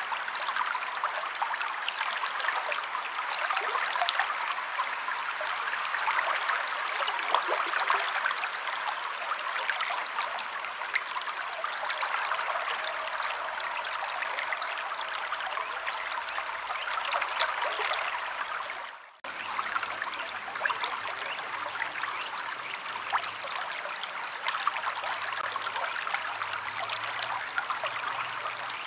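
A stream of water flowing and babbling steadily. The sound drops out for a moment about two-thirds of the way through, then carries on.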